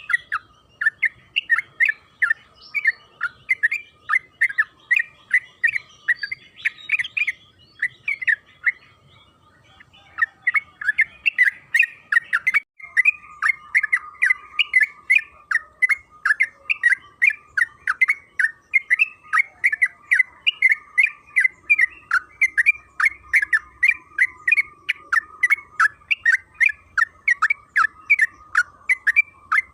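Sooty-headed bulbul (trucukan) singing a long, fast run of short chattering notes, about three a second, with a brief break about nine seconds in.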